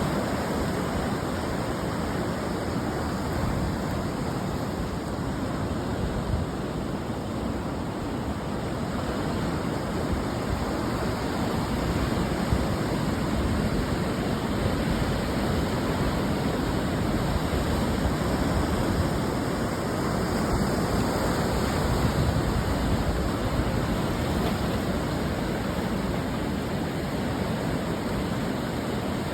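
Ocean surf breaking on a beach: a continuous rushing wash of waves that swells and eases slowly, with no distinct single crash standing out.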